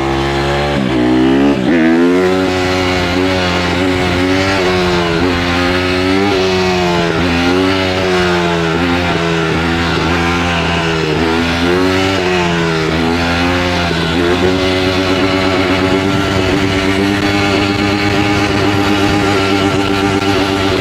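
Honda CRF150R dirt bike's single-cylinder four-stroke engine under way, its pitch falling sharply about a second and a half in, then rising and falling every second or two as the throttle is worked, and holding steadier near the end.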